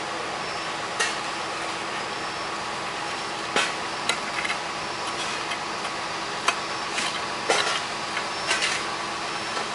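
Road construction work: a steady background noise broken by sharp, irregular knocks and clanks, about eight in all.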